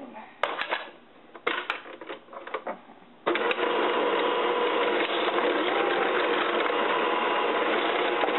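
A few light knocks and clicks, then about three seconds in an electric mixer switches on and runs steadily, beating butter and powdered sugar together in a bowl.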